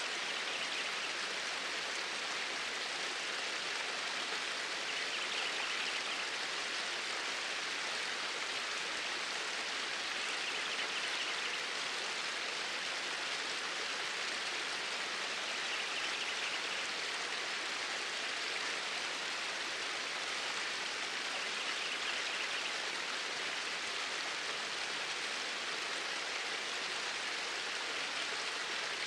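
Flowing water: a stream running with a steady rushing sound, swelling slightly about every five or six seconds.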